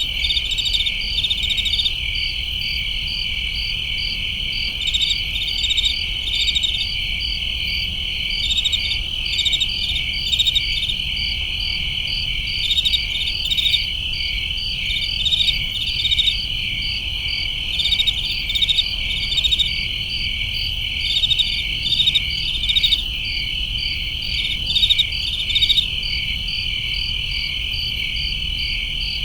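Crickets chirping: a steady trilling chorus, with short runs of louder pulsed chirps every second or two.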